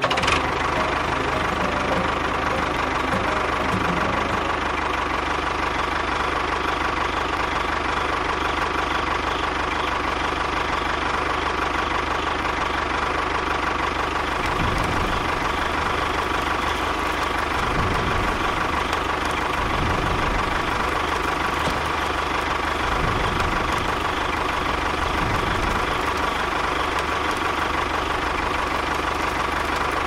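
Tractor engine running steadily, an unbroken engine drone with no change in speed.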